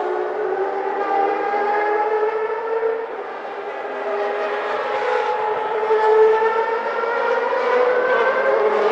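1991 Formula One racing car engines running at high revs, several pitched notes layered together. The pitch climbs slowly over two long stretches, with a brief dip in loudness about three seconds in.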